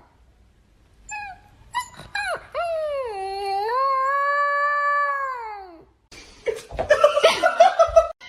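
Dog howling: a few short yips, then one long howl that dips in pitch and then rises and holds, followed near the end by a quick run of sharp, noisier yelps and clatter.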